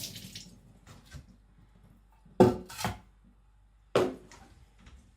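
Sharpening stones being handled and set down on a hard surface after flattening. Three sharp knocks with a short ring: two close together about two and a half seconds in, and a third about a second later.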